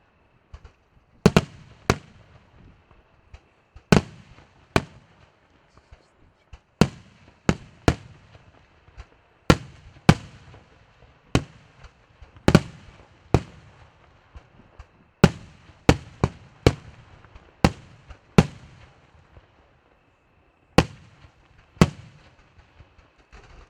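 Fireworks going off in a string of sharp single bangs, irregularly spaced at about one a second with a few short pauses. Each bang trails off in a brief echo.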